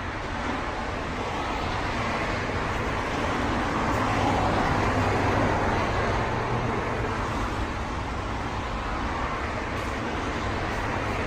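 Motor vehicle running: a steady rumble with road or traffic noise that swells slightly a few seconds in.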